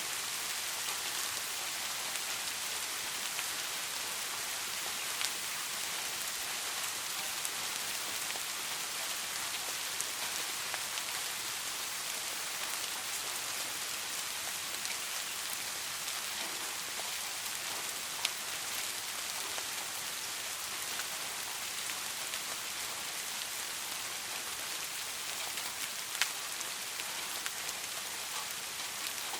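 Steady rain, an even hiss, with a few isolated sharp ticks scattered through it.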